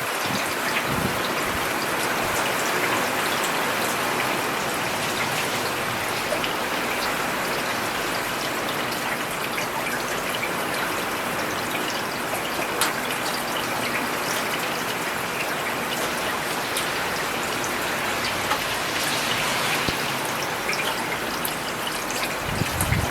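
Steady rain falling on a paved road: an even hiss with scattered individual drops ticking and splashing. A brief low rumble comes near the end.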